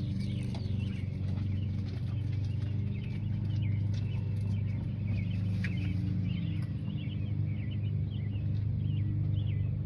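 A steady low mechanical hum, like a motor or engine running, with birds chirping over it.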